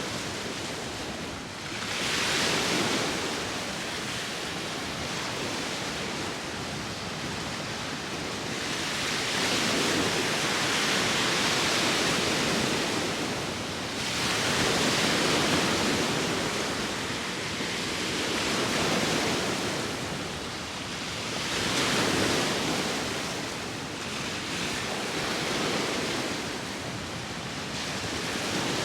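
Sea waves washing onto the shore, a continuous rush of surf that swells and falls again every few seconds.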